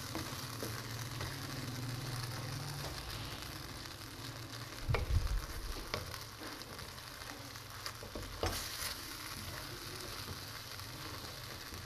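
Shredded chicken and spice paste sizzling in a non-stick karahi as a wooden spatula stirs and scrapes it. A few louder knocks of the spatula against the pan come about five and eight and a half seconds in.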